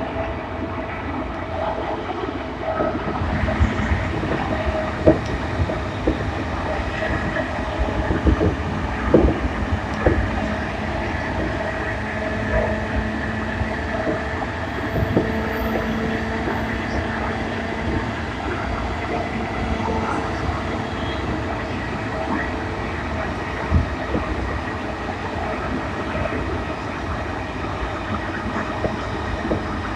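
Running noise inside a JR East E233-1000 series electric commuter train's motor car at speed: a steady rumble of wheels on rail with a few sharp knocks and clicks, and steady tones from the running gear over it.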